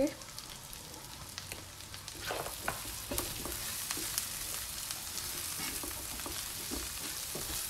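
Diced potatoes sizzling in oil and spices in a non-stick pan, a steady hiss. A slotted spatula stirs and turns them, with short scrapes and taps against the pan from about two seconds in.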